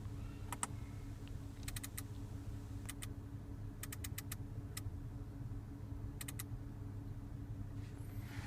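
Audi MMI control knob clicking as it is turned through its detents and pressed, in small runs of two to four quick clicks, over a steady low hum.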